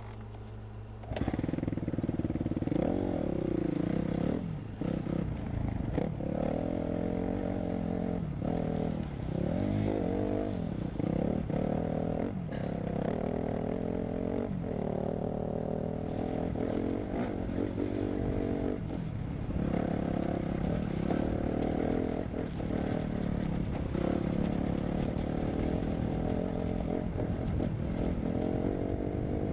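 Dirt bike engine revving hard from about a second in, its pitch rising and dropping again and again as the bike is ridden.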